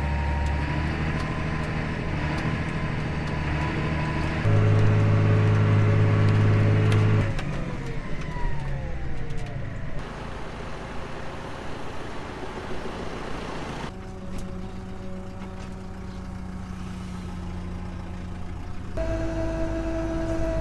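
Large farm tractor's diesel engine running: about four seconds in it revs up louder for a few seconds, then the revs fall away and it settles to a quieter steady run, its note changing again near the end.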